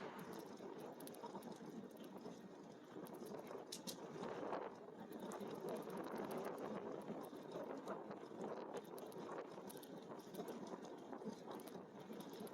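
E-bike rolling along: steady tyre noise with many small rattles and clicks.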